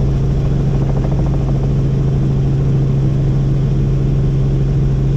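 Helicopter in flight: the engine and rotor make a loud, steady drone with a constant low hum.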